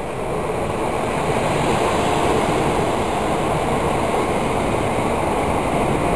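Passenger train running through the station on the far line, a steady rushing rumble of wheels on rails that grows a little louder over the first two seconds.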